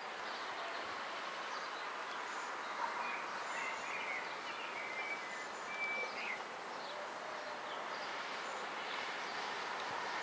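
Steady rail noise of a distant train approaching, growing slightly louder near the end, from a CrossCountry Voyager diesel train. Birds chirp a few times in the middle.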